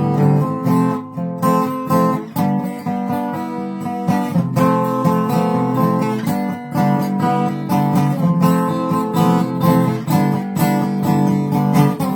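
Acoustic guitar strumming chords in a steady rhythm, with no singing yet.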